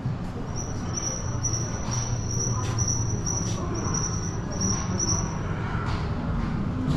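A high, thin chirp repeating about two to three times a second for about five seconds, over a steady low background rumble.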